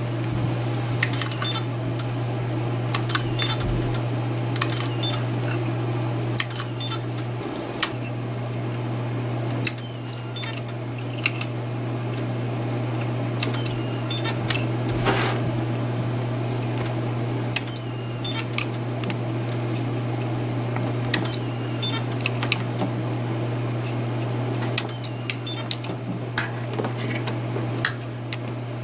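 Capacitive-discharge micro spot welds made on wire mesh with a pressure-activated tweezer hand piece: sharp snapping clicks every second or two, often in quick pairs, over a steady low hum.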